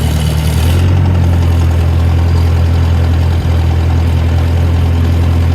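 Ford 620 tractor's gasoline engine running, throttled up about a second in to a faster, steady speed to drive the forklift hydraulics, which are slow because the oil is cold.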